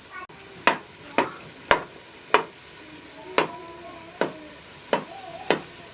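A series of eight sharp knocks or strikes at an uneven pace, about half a second to a second apart.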